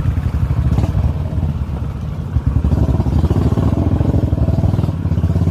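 Motorcycle engine running under way, a steady low rapid beat that eases off slightly about two seconds in and picks up again soon after.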